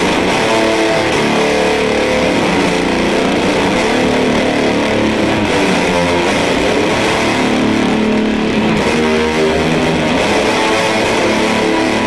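Electric guitar played through an EarthQuaker Devices Fuzz Master General fuzz pedal into a miked Fender Deluxe Reverb amp: sustained fuzzy chords and notes played continuously, changing every second or so.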